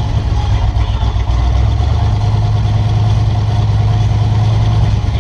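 Demolition derby car engines running, a loud, steady low rumble.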